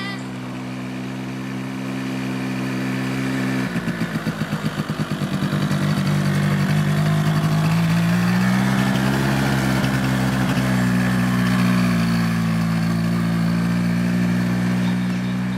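Quad bike engine idling steadily, then picking up about four seconds in with a pulsing, uneven note before settling into a steady run; the pitch rises around halfway and drops a little later on.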